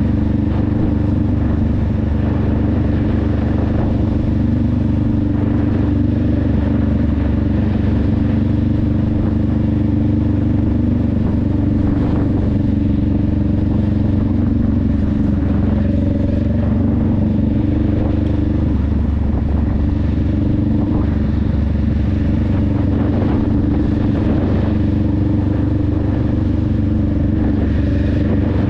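Honda Rebel 500's 471 cc parallel-twin engine and exhaust running at fairly steady revs while riding.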